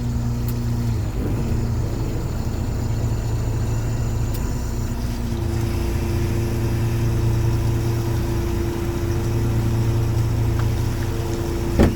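Small fishing boat's engine running steadily with a low hum, its tone shifting slightly about five seconds in.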